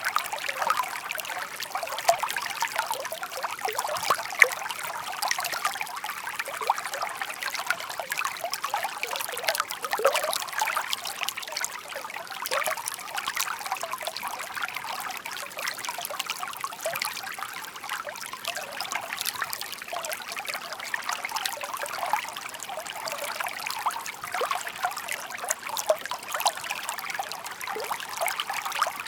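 Shallow park brook babbling over stones: a steady, dense trickling and gurgling of running water that goes on without pause.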